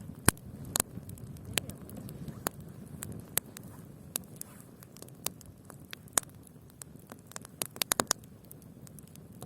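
Bonfire crackling, with irregular sharp snaps and pops, a quick cluster of them near the end, over a low steady noise.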